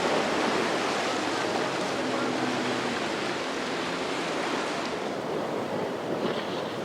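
Waves surging and breaking in a rough ocean inlet, with wind on the microphone and a faint, steady, low engine hum under it.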